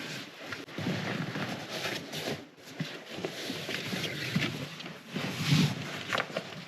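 Irregular rustling and handling noises from a packaged self-inflating camping mattress being handled and unwrapped, with scattered short scrapes and knocks.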